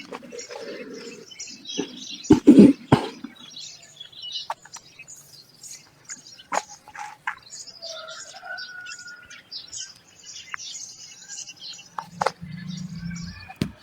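Birds chirping and calling with many short, high chirps, a brief whistle near the middle, and a loud cluster of sharp knocks about two and a half seconds in, with a few single clicks later.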